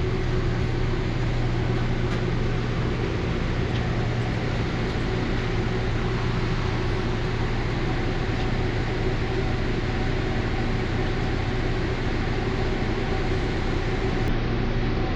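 Bus engine running steadily: a constant low hum under an even rumble of engine and road noise.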